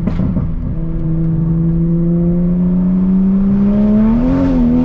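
Toyota Supra MK5 3.0's turbocharged inline-six pulling hard under throttle, heard from inside the cabin. Its note rises steadily, with a brief wobble in pitch about four seconds in.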